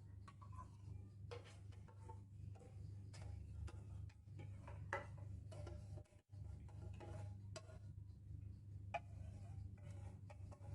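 Faint, irregular clicks and scrapes of a spoon working sweetened condensed milk out of a tin into a bowl of crushed pineapple, over a steady low hum.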